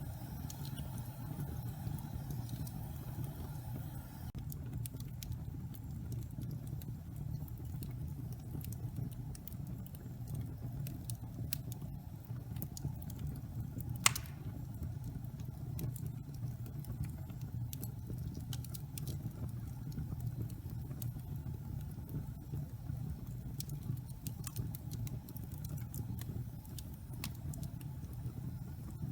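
Wood fire burning in a fireplace: a steady low rumble of flame with scattered crackles, and one loud pop about halfway through.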